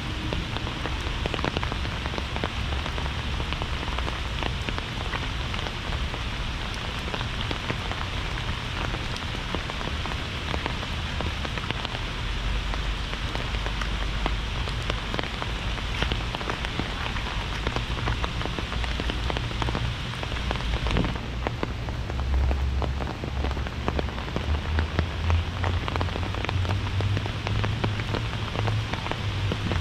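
Heavy rain falling: a steady hiss dense with the patter of individual drops, over a low rumble that grows stronger near the end.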